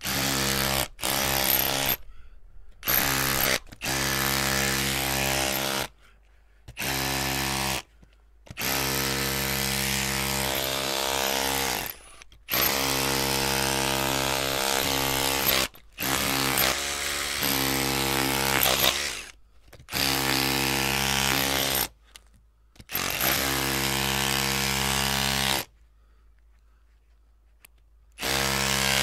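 Electric drill run in about ten bursts, from under a second to about four seconds each, with short silent gaps as the trigger is squeezed and released. The motor holds a steady pitch in each run.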